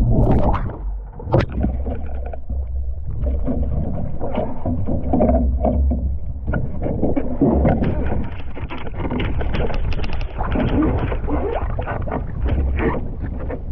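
Outrigger canoe being paddled: irregular splashes of the paddle and water against the hull, over a steady low wind rumble on the microphone.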